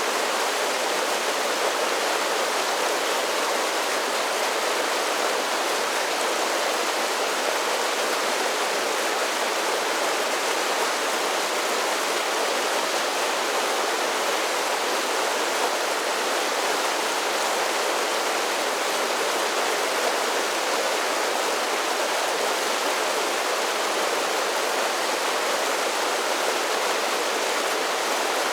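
Mountain creek cascading over a series of small waterfalls, a steady rushing splash.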